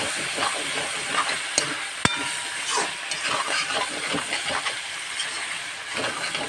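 Chicken sizzling in a hot metal pan while a metal spatula stirs and scrapes it in quick strokes. About two seconds in, a sharp metallic tap rings briefly.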